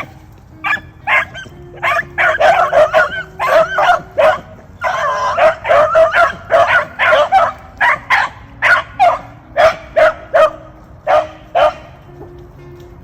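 Beagles baying and barking on a rabbit hunt, a rapid run of loud calls from several hounds that overlap at times, stopping about a second before the end.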